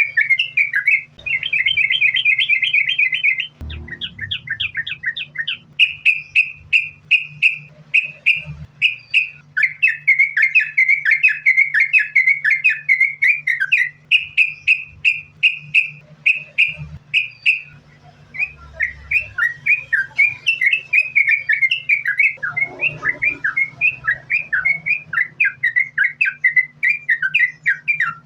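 Yellow-vented bulbul (trucukan) singing without a break, in rapid strings of short chirping notes with a fast trill about two seconds in. A faint steady low hum runs beneath.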